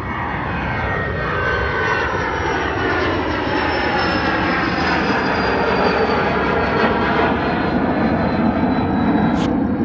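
Private jet taking off: a loud, steady jet-engine rush with a whine that slowly falls in pitch as the aircraft passes.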